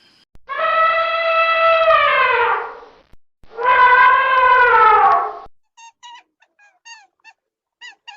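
Two long, loud animal calls, each held for about two seconds and dropping in pitch at the end, followed by a run of short bird chirps.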